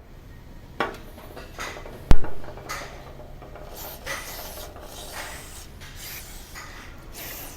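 Irregular rubbing and scraping strokes, with a sharp click about a second in and a loud knock about two seconds in.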